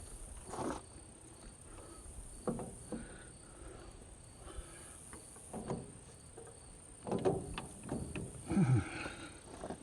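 Crickets chirring steadily, with scattered clinks and knocks of hand tools as wrenches work on the tractor's carburetor fittings; the loudest knocks come near the end.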